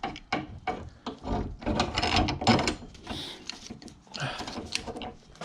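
Irregular clicks, knocks and rattles of hand work in a car engine bay as a bungee strap is stretched and hooked on to hold the unbolted power steering pump out of the way.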